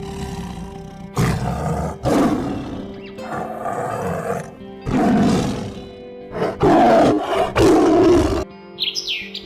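A large animal roaring six times in a row, each call about a second long, over soft background music. A few short chirps follow near the end.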